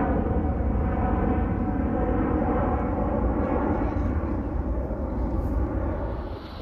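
Airbus A320neo jet engines at take-off power as the airliner climbs away: a steady jet roar with a stack of fan tones that slowly sink in pitch, fading slightly near the end.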